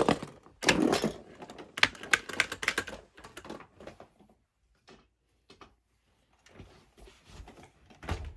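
Hard plastic toys clicking and clattering: a dense run of knocks and rattles for the first couple of seconds, then scattered ticks, picking up again near the end.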